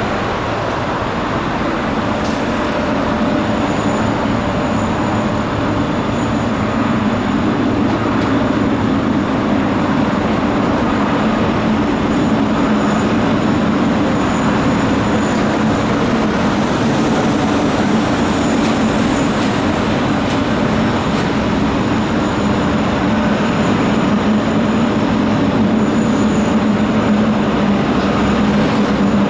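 SFO AirTrain people-mover running: a steady, continuous noise with a low hum, holding level throughout.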